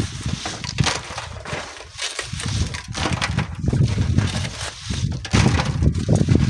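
Strong wind buffeting the microphone in gusts, with irregular crunching and scraping sounds mixed in.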